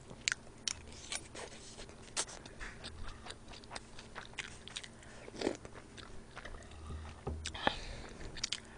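Close-miked eating of fried rice and spoonfuls of broth: faint chewing with scattered small clicks and smacks from the mouth and a metal spoon.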